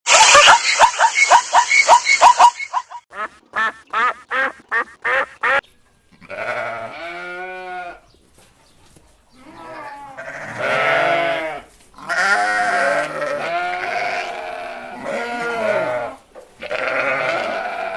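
A farm animal calling: a run of quick repeated calls in the first few seconds, then several long wavering cries, each lasting a second or two.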